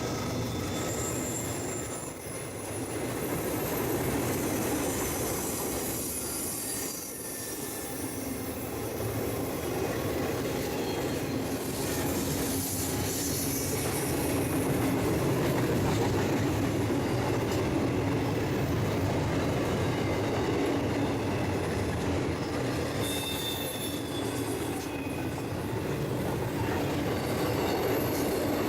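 Freight train rolling past: the steady rumble of steel wheels on rail with some clickety-clack, and brief high-pitched wheel squeals now and then.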